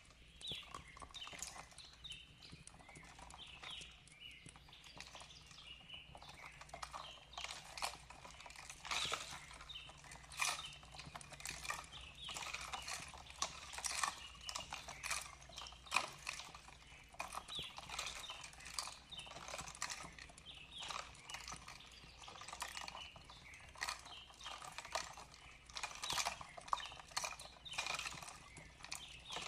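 Fireplace fire crackling: irregular sharp snaps and pops, many to the second, over a faint steady low rumble.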